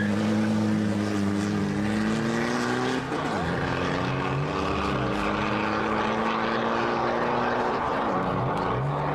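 Two cars accelerating hard away from a standing start in a street drag race. The engine pitch climbs steadily through each gear and drops at gear changes about three seconds and eight seconds in.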